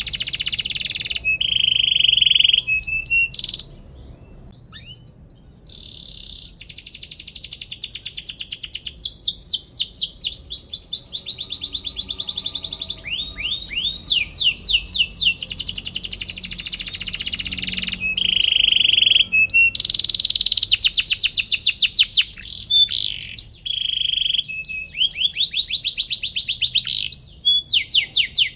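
Domestic canary singing a long, rapid song of rolling trills and quick sweeping notes. The song pauses for a few seconds near the start, then runs on with only short breaks.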